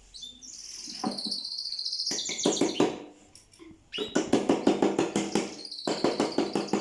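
A small caged songbird singing long runs of fast repeated trill notes, with high gliding whistles between them.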